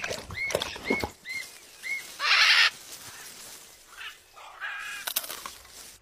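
Bird calls: four short chirps that rise and fall, about two a second, then a loud harsh squawk about two seconds in, and a shorter call near the end.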